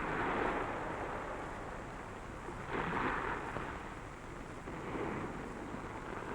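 Sea waves washing onto a beach, the noise of the surf swelling and falling away about three times.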